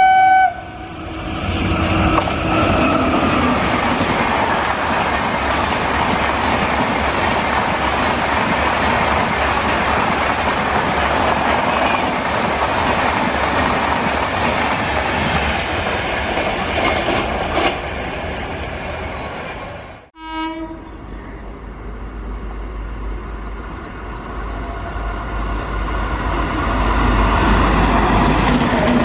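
An electric-hauled passenger train passing at speed: a horn note cuts off in the first second, then a steady rush of wheels and coaches clattering over the rails for about twenty seconds. After a sudden cut, a second electric-hauled train approaches with a deep rumble that grows louder toward the end, a short horn note sounding just after the cut.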